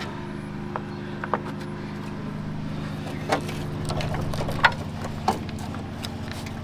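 A vehicle engine idling steadily in the background, with scattered light clicks and taps of hand work on the truck's wiring.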